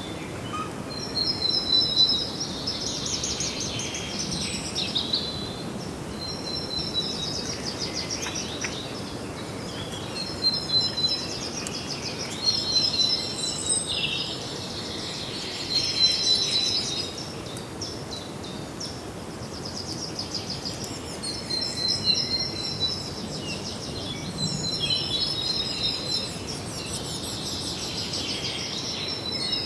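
Songbirds singing, quick runs of high notes repeated in phrases every few seconds, over a steady background hiss.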